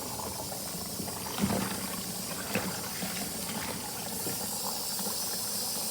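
Water running from the fill hose into a Kuppet twin-tub washing machine's tub as a steady hiss, with a couple of light knocks about a second and a half in and again a second later.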